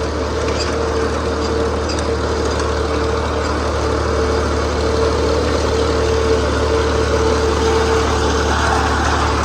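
Tractor's diesel engine running at a steady speed, a continuous low hum with a steady drone above it.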